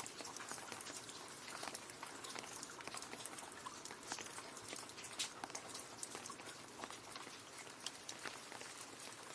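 Steady rain falling into a puddle, with many small drops splashing and pattering in quick, irregular succession.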